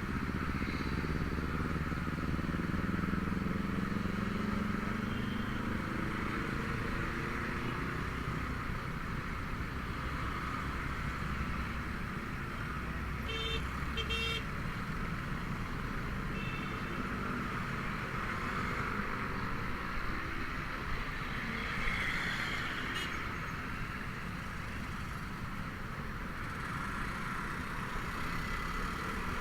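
Honda Vario 125 scooter's single-cylinder engine running on the move, with road and traffic noise and its pitch shifting in the first few seconds. A vehicle horn beeps twice briefly about halfway through.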